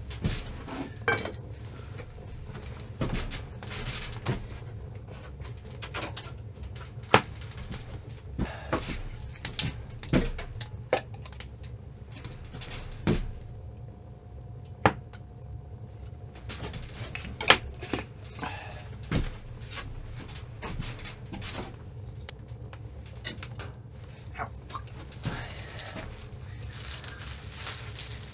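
Pots and kitchen utensils being handled on a stove: scattered clinks and knocks of metal cookware, over a steady low hum.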